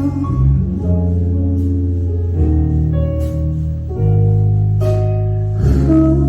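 Live band playing an instrumental passage of a slow ballad: sustained chords over a bass line, the chord changing about every two seconds, with no singing.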